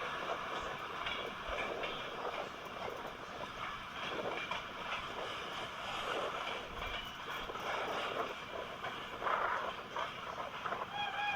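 Passenger train running at speed: a steady rush of wheel and rail noise, with a few louder swells near the end.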